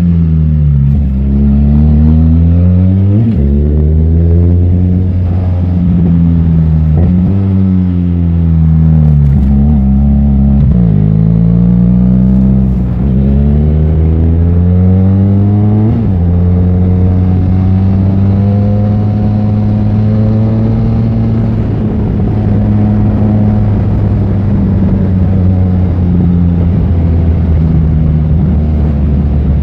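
Benelli 502C's parallel-twin engine under way: its pitch climbs and drops sharply several times as it shifts up through the gears in the first half, then holds steady at a cruise for the second half.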